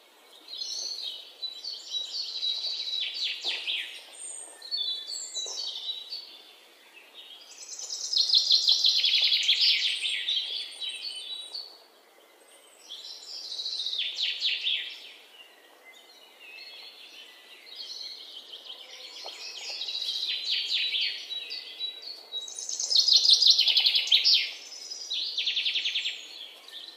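A songbird singing in about six phrases of rapid high chirps and trills, each lasting a few seconds, with short pauses between.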